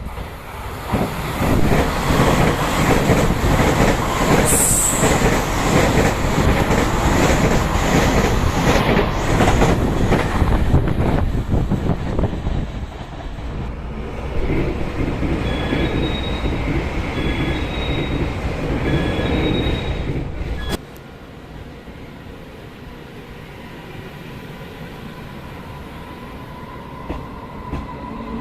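A train running past close by, its wheels clattering loudly on the rails with a brief high squeal about four seconds in. The train noise eases after about twelve seconds, a repeating two-note beeping sounds for several seconds, and the sound drops suddenly about twenty seconds in to a quieter steady hum.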